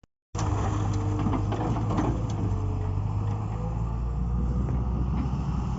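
Heavy diesel engine running steadily with a low rumble, with a few scattered light knocks, as sand is loaded onto a truck.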